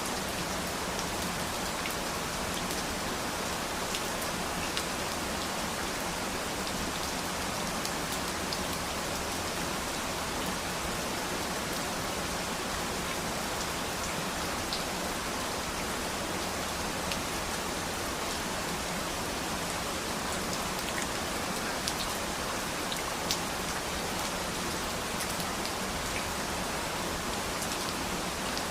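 Steady, even rain falling on a surface, with scattered individual drops ticking now and then.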